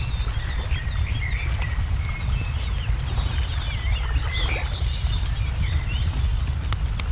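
Wood fire crackling with scattered sharp pops, under many small birds chirping and twittering, over a steady low rumble.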